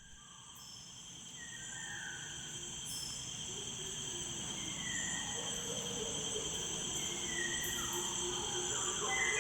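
Continuous high-pitched insect trilling, like crickets, with soft background music gradually growing louder beneath it.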